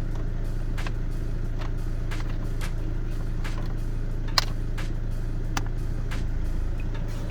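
Car engine idling with a steady low hum, with a series of sharp clicks roughly every half second to a second; the loudest click comes about four and a half seconds in.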